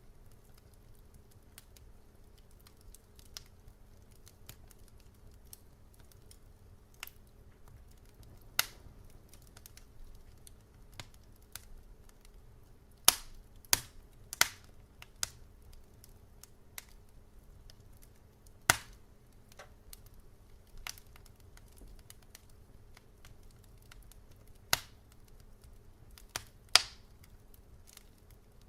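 Wood fire in a fireplace crackling: scattered sharp pops and snaps, a few much louder than the rest, over a faint low steady hum.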